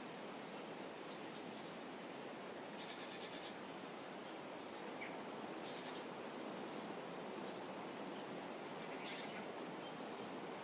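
Steady outdoor ambient hiss from the water's edge, with a small bird giving short high chirps: a brief rattle of quick ticks about three seconds in, a few notes about five seconds in, and a fast run of three louder chirps near the end.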